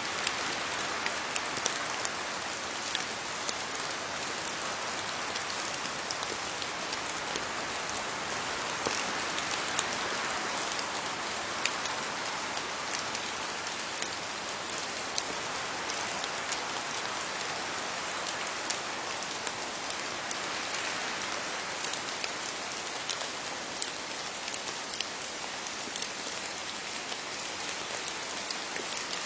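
Steady rain falling on leaves, a continuous patter with many distinct drop hits scattered through it.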